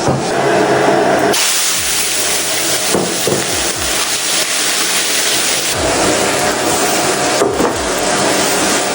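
Iron wok being scrubbed with a piece of pork skin to clean off rust: a steady scraping hiss that shifts in strength about a second and a half in and again near the six-second mark.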